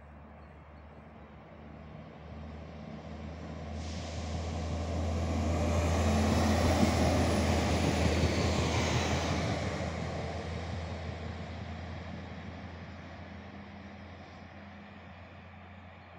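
SA139 diesel multiple unit passing by: a low engine hum and wheels-on-rails noise that build as the train approaches, are loudest about seven seconds in, then fade steadily as it runs away.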